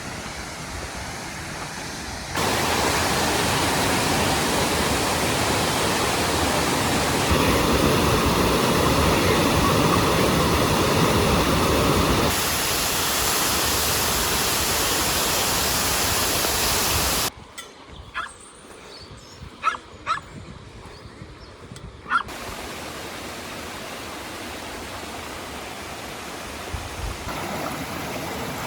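Rushing water of a waterfall and mountain river: a steady, even rush that jumps abruptly in loudness several times. For about five seconds past the middle it drops to a much quieter background with a few short, sharp sounds, then the water returns at a lower level.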